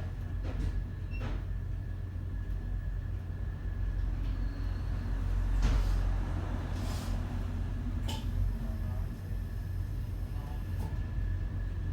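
Düwag M8C articulated tram running, a steady low rumble with a faint steady high tone over it and a few knocks, briefly louder about six seconds in.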